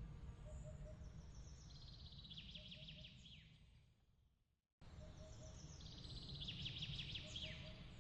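A small bird singing fast trills of short high notes, with a soft three-note call repeating lower down, over a steady low rumble. About four seconds in everything fades away to silence, then cuts back in abruptly with the same trill: the restart of a looped ambience track.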